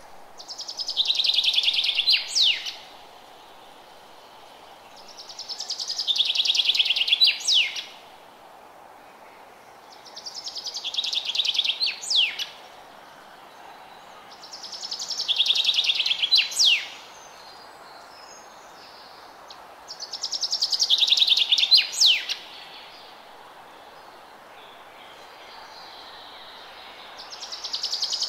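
A songbird repeating the same short song about every five seconds: a fast trill that swells over about two seconds and ends in one or two sharp downward-swept notes, over a steady background hiss.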